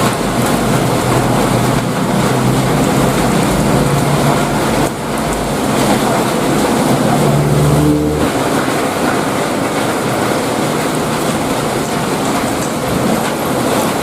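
Heavy rain pouring steadily, a dense even hiss. A brief low hum rises and stops about halfway through.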